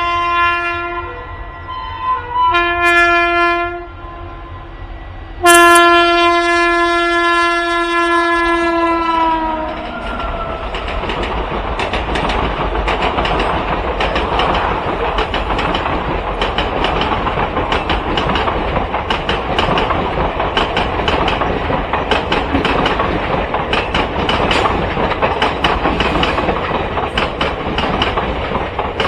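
WAG-9 electric locomotive's horn sounding three times, the last blast long and dropping in pitch as it ends, then the train rolling past with a steady clickety-clack of wheels over rail joints.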